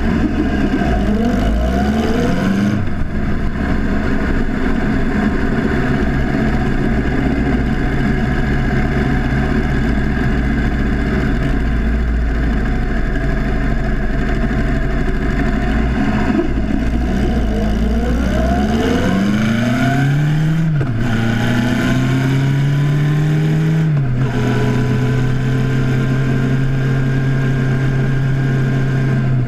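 1976 Honda CB750's air-cooled inline-four engine being ridden. The revs climb near the start and hold steady, then climb again about two-thirds through. The pitch drops suddenly twice near the end as the bike is shifted up, then settles to a steady cruise.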